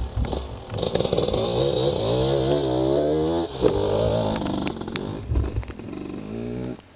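Motocross bike engine revving, its pitch wavering up and down as the throttle is worked, with scattered knocks; the sound falls away sharply near the end.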